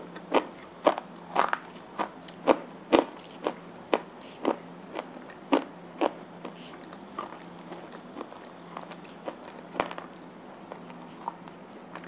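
Close-up crunching of slate pencils being bitten and chewed: sharp crunches about two a second, growing sparser and fainter after about halfway.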